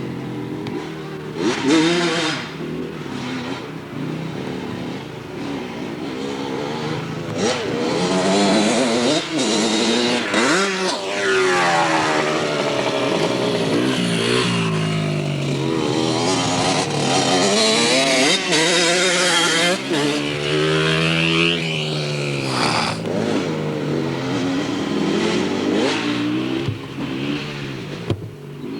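Dirt bike engines revving, their pitch rising and falling over and over as the bikes accelerate and ease off, with two engines overlapping at times. The sound grows louder about a quarter of the way in.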